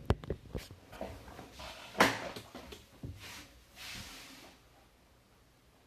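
Handling noises on a table: a few light clicks, a sharp knock about two seconds in, then two soft rustling swishes, fading to quiet room tone.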